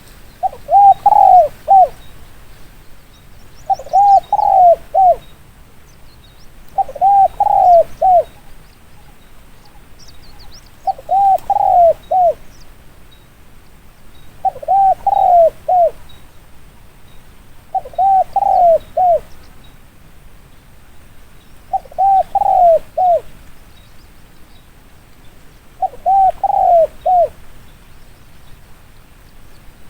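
Spotted dove cooing. It repeats a short phrase of about four notes roughly every three and a half seconds, eight times.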